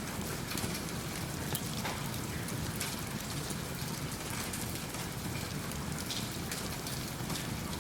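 Steady rain ambience with a low rumble, mixed with the crackle of a wood fire in a fireplace, heard as many small sharp ticks scattered through the hiss.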